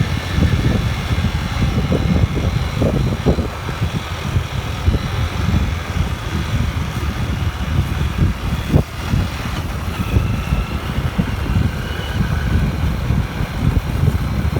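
Motorbike engine running on the move, a steady low rumble with an uneven, fluttering texture.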